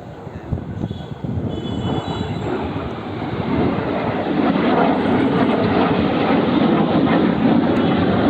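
Military jet aircraft flying past overhead: the engine noise grows steadily louder over the first few seconds, then holds loud and steady.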